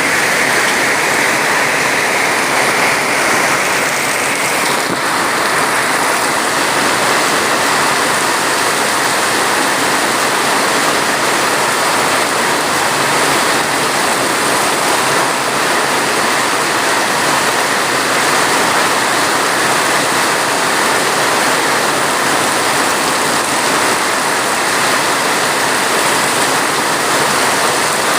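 Steady rain, a dense even hiss with no breaks or single drops standing out.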